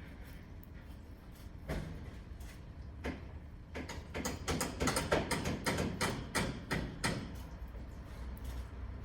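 Canary pecking at its seed food: a run of quick sharp clicks, a few scattered at first and then thick and fast between about four and seven seconds in.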